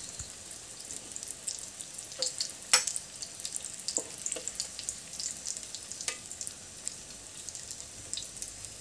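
Vegetable chops sizzling in hot oil in a metal kadai, with a few short clinks as a slotted steel spoon lifts them out onto a steel plate.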